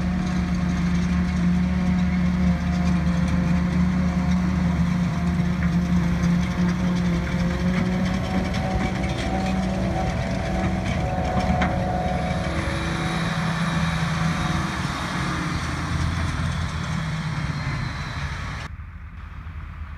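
Heavy diesel farm machinery at work chopping grass for silage, a steady loud engine drone with a whine over it. The tone shifts about twelve seconds in, and near the end the sound drops abruptly to a quieter level.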